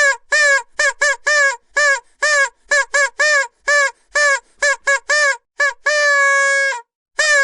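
Vuvuzela blown in a rapid string of short honks, about two a second, each bending up and falling away, then one long held note near the end.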